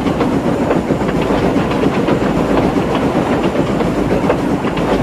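Steam locomotive running steadily along the track, a continuous rattle of wheels on rails.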